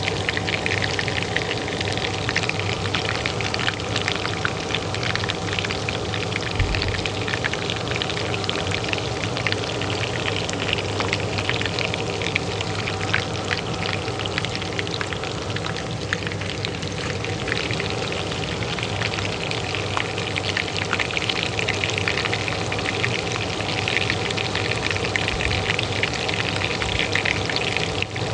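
Oil frying in a pan with dense, steady crackling and sizzling, over the constant hum of a kitchen range hood fan.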